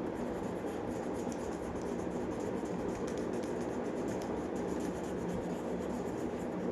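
Colour pencil shading on paper: continuous back-and-forth colouring strokes.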